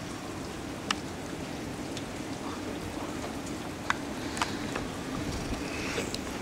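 Steady rain, with a few sharp ticks scattered through it.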